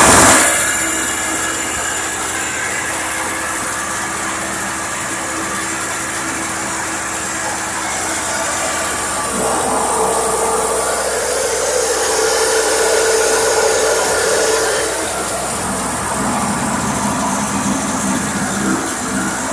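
Toro CCR 2500 snowblower's small two-stroke engine running steadily, having started on starting fluid; its level drops just after the start and a higher tone comes in for a few seconds in the middle. The owner takes the hard starting for a flooded engine or old gas in the tank.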